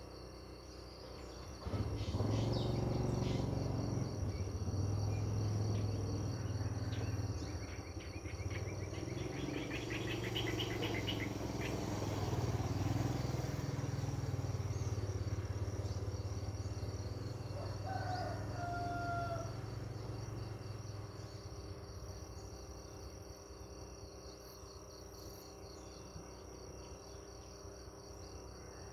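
Crickets chirring steadily in a high continuous trill, with a few brief bird calls. A louder low rumble of unknown source starts suddenly about two seconds in and fades away after about twenty seconds.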